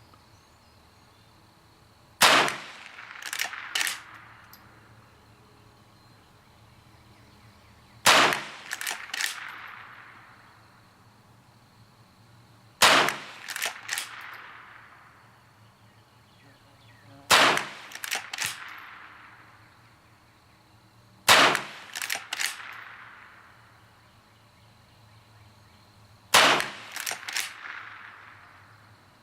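A Henry .22 lever-action rifle firing six single shots, one every four to five seconds. Each shot is followed by two smaller metallic clacks as the lever is worked open and closed to chamber the next round.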